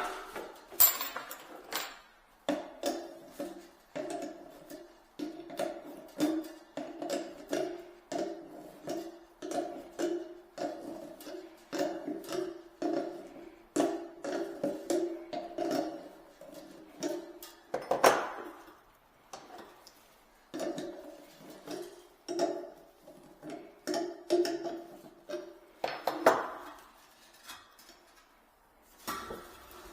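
Metal clanking and rattling while a kitchen sink is being worked on: long runs of quick knocks that ring with a hollow metallic tone, and a sharper strike about eighteen seconds in and again near the end.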